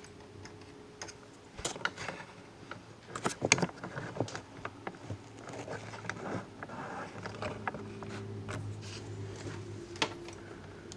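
Scattered small clicks and scrapes of hard plastic as a Dell Inspiron 3500 laptop's case is pried and its plastic clips are worked into line, over a faint steady hum.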